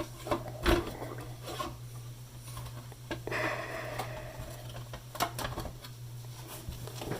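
Scattered light clicks and scraping from the power-cord grommet being worked into the transistor radio's case by hand, over a steady low hum.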